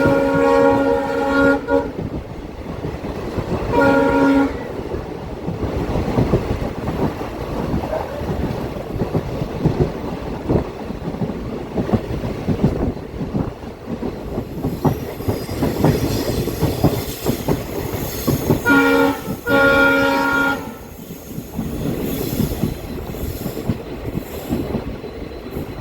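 WDP4B diesel locomotive's air horn sounding: a blast that ends about two seconds in, a short toot at about four seconds, then a short and a longer blast near the twenty-second mark. Between them, the train's wheels run over the rail joints with a steady clickety-clack.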